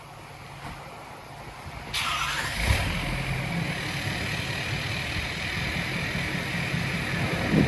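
Vehicle engine running steadily, setting in about two seconds in after a quieter stretch.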